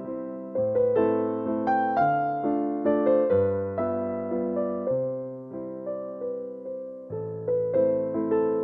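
Background music: a soft piano piece playing gently flowing notes, each struck and fading, over a steady pulse.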